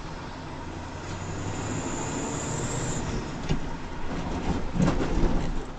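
A vehicle's steady running rumble, with a sharp knock about three and a half seconds in and a louder cluster of thumps near the end.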